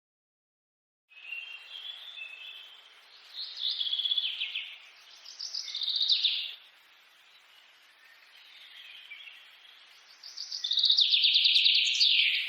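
A songbird singing in short phrases of rapid chirps and trills over a faint hiss, starting about a second in after silence; the longest and loudest phrase comes near the end.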